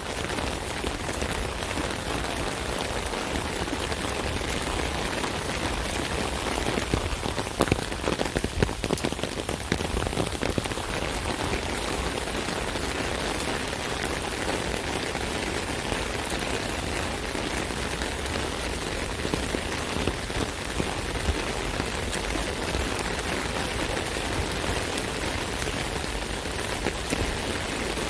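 Rain falling on an umbrella: a steady, dense patter of drops striking the taut canopy, heavier for a few seconds about a quarter of the way in.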